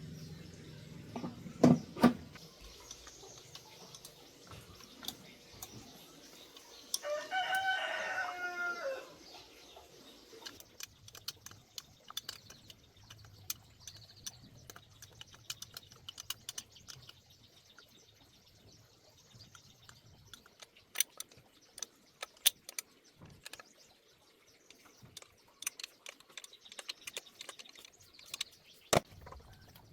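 A rooster crows once, a drawn-out call of about two seconds a third of the way in. Scattered sharp clicks and taps run throughout, with two loud knocks near the start.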